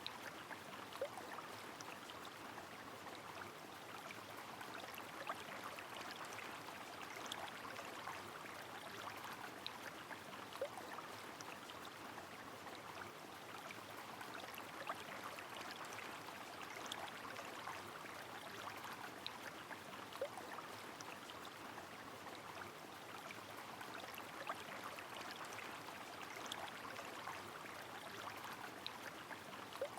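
Rain and a flowing river: a steady rush of water with many irregular, sharp drop ticks scattered through it.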